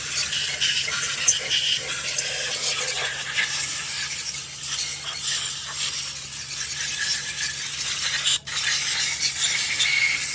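Continuous, uneven scratchy scrubbing of an engine part being cleaned, with a faint steady hum underneath and a brief break about eight seconds in.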